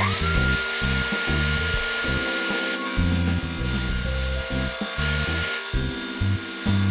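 A small high-speed power tool motor spins up with a quickly rising whine at the start, then runs at a steady pitch. Background music plays along with it.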